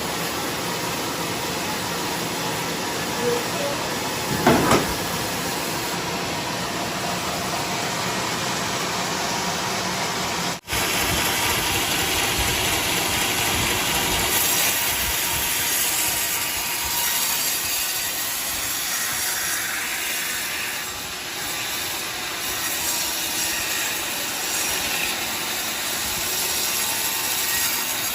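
Sawmill running, its saw cutting coconut lumber: a steady, noisy mechanical sound, broken by a brief dropout about ten seconds in.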